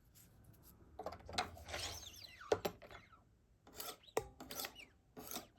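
Fine 800/1000-grit sharpening stones on a Wicked Edge guided sharpener stroked along a knife edge of CPM Cru-Wear steel: a series of uneven scraping strokes, some with a thin squeak, taking the scratches of the coarser stone off the edge.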